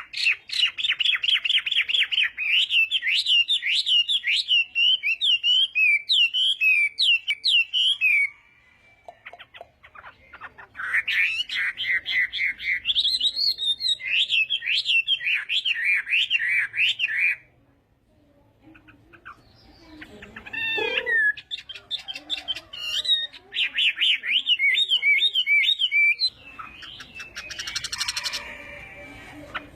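Chinese hwamei (melodious laughingthrush) singing in long bursts of rapid, varied, warbling phrases with pauses between them. Softer scattered notes come before the last burst, and a harsher, noisier sound follows near the end.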